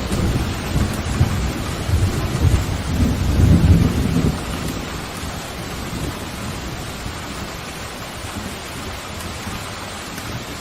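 Steady heavy rain with a roll of thunder rumbling through the first few seconds and dying away, leaving just the rain.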